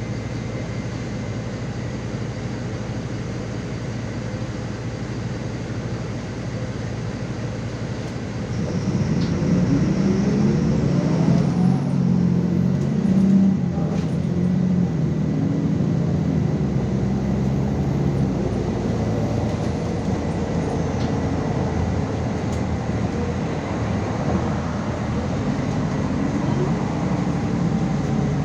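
MAZ 216.066 city bus running, heard as a steady low engine hum. About eight seconds in it gets louder and the engine note rises as the bus pulls away and accelerates.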